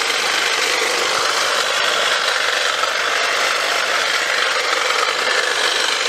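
Off-brand battery-powered saw running steadily while cutting through bushes.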